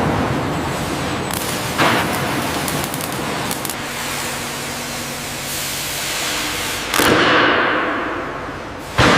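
Heavy-machinery factory noise: a steady hiss with a low hum, a sharp bang about two seconds in and two louder metallic-sounding bangs near the end.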